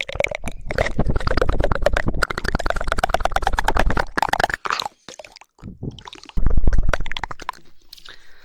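Rapid, wet tongue clicking close to the microphone: a fast rattling run of clicks, 'woodpecker' style, for about four seconds. It then breaks into sparser wet mouth sounds, with one louder, heavier burst a little past the middle.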